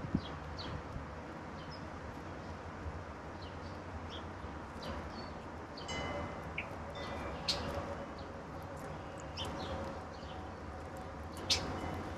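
Wild songbirds giving short, scattered chirps and calls over a steady low background hum, with a brief knock right at the start. One sharp call near the end stands out as the loudest.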